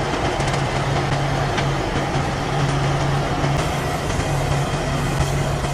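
A heavy truck engine running steadily at an even pitch, with mechanical noise around it.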